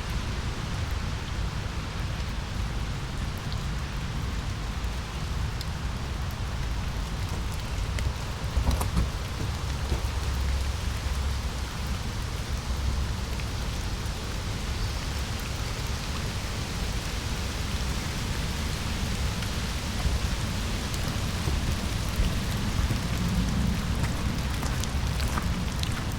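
Steady rain falling in a wet forest: an even hiss with occasional single drops, over a low rumble.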